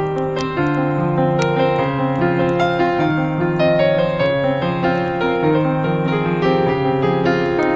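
Slow, gentle piano music with held, overlapping notes, over the scattered small pops and snaps of a crackling wood fire.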